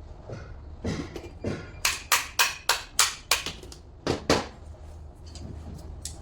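Hammer tapping: a run of sharp strikes about three a second, with a few single knocks before and after.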